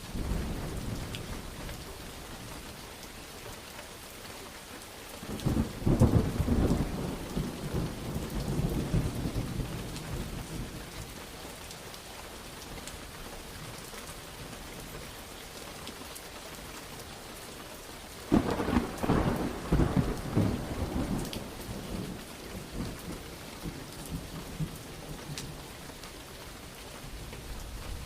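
Steady heavy rain with thunder: a rumble right at the start, then two loud rolling peals about five seconds in and again about eighteen seconds in, each crackling at first and then rumbling away over several seconds.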